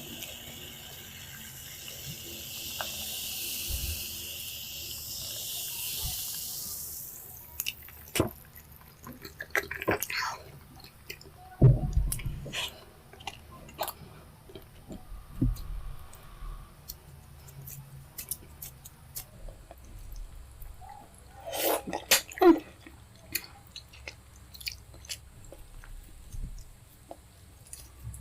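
Close-miked eating sounds of pepper soup with fufu: chewing, slurping and many small sharp clicks. A steady high hiss runs for about the first seven seconds.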